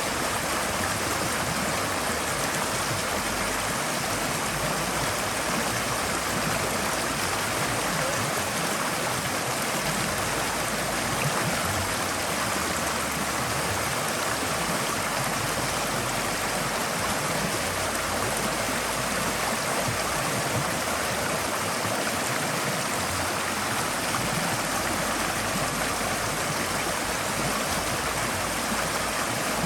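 Forest stream flowing steadily, water rushing and gurgling over rocks.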